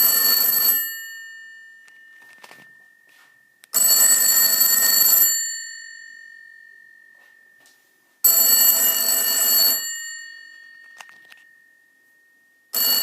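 Ringer of a 1980s Citesa Heraldo push-button telephone ringing in bursts of about a second and a half, roughly every four and a half seconds, each ring fading away after the burst stops. One burst is ending as the sound begins, two more ring in full, and another starts near the end.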